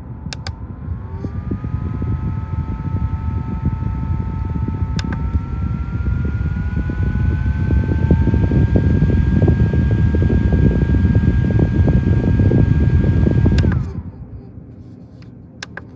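Small USB desk fan running. Its motor whine steps up in pitch as it is clicked to higher speeds, and the air blast buffets the microphone with a heavy rumble. Near the end it is switched off with a click, and the whine winds down.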